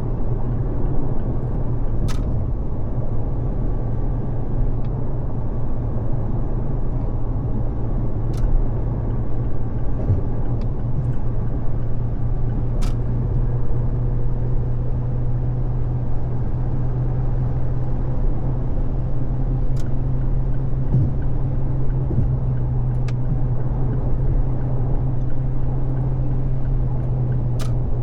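Car cruising at freeway speed: steady road and tyre noise over a constant low engine drone, with a few faint clicks now and then.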